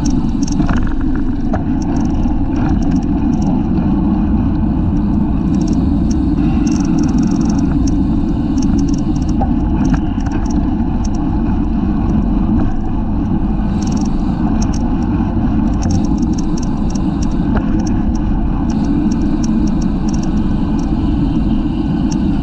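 Steady, loud wind noise rushing over a bicycle-mounted camera's microphone at race speed, with faint intermittent clicks and rattles from the bike.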